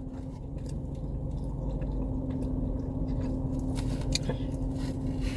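Steady low hum inside a car's cabin, with a faint steady tone, and scattered small clicks and smacks of someone chewing food.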